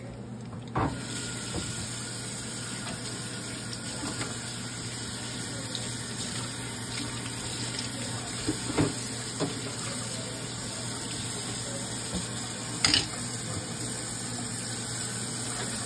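Breaded chicken cutlets sizzling steadily in hot oil in a frying pan, with a few louder crackles and pops. A knock about a second in, after which the sizzle is louder.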